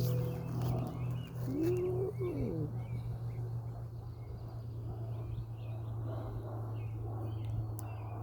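Small birds chirping repeatedly over a steady low hum, with one lower call about one and a half seconds in that rises and then falls.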